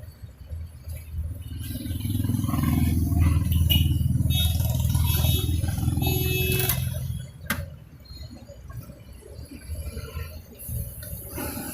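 A motor vehicle's engine rumbling as it passes close by, building over a couple of seconds and fading out about seven seconds in. A single sharp click follows shortly after.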